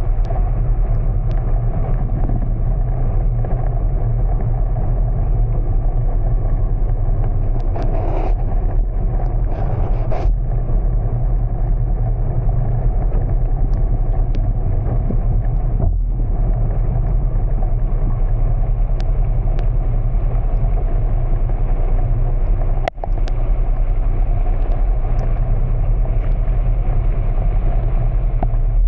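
Car driving, a steady low rumble of engine and road noise that cuts out for an instant near the end.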